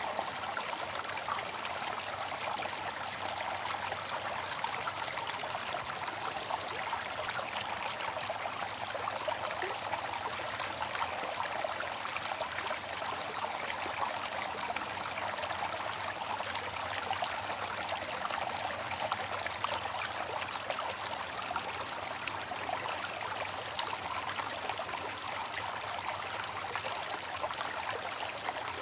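Water fountain splashing and trickling steadily, an even rush of falling water with fine splashing detail.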